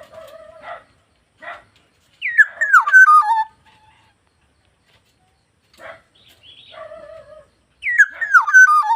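Black-naped oriole calling: two loud, descending slurred calls about five seconds apart, with softer raspy chattering notes between them.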